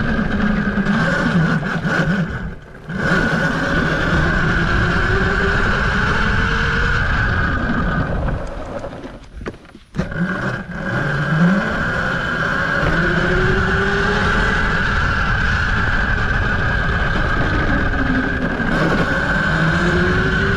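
Tuttio Soleil01 electric dirt bike being ridden: its motor whine rises in pitch several times as it speeds up, over a steady rushing noise and a constant high hum. The sound drops away briefly twice, near 3 s and near 10 s.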